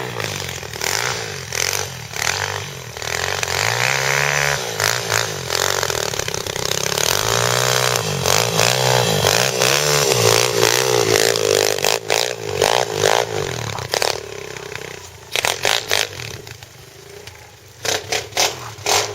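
Pit bike engine revving up and down over and over, its pitch rising and falling. Near the end the engine drops back and a run of sharp clattering knocks is heard.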